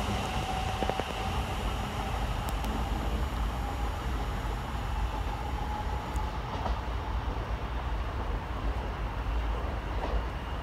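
Electric multiple unit pulling away along the line: a steady rail rumble with a thin motor whine that rises slightly in pitch and fades out about two-thirds of the way through.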